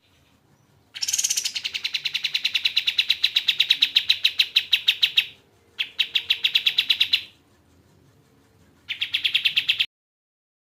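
Kapas tembak singing: fast, evenly repeated piercing notes in three bouts, a long one of about four seconds, then two shorter ones with brief pauses between.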